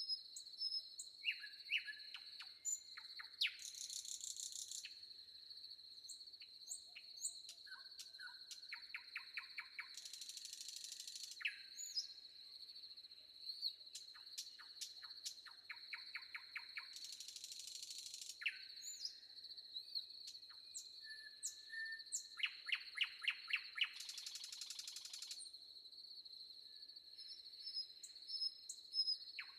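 Several forest birds singing and calling: short chirps, quick trills and runs of rapid repeated notes, over a continuous high-pitched insect drone. A harsh buzz comes in four times, each lasting about a second.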